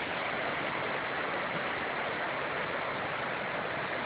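Steady rush of fast-flowing flash floodwater.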